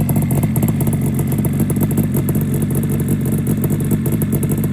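1976 Yamaha RD400's two-stroke parallel-twin engine idling steadily, a fast, even, popping run with no revving.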